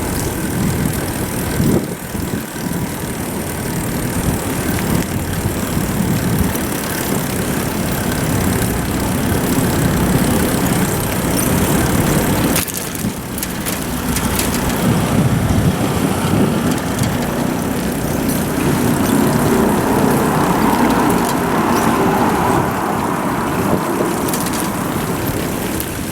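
Wind buffeting a moving action camera's microphone, a loud, steady rumbling noise with small rises and dips.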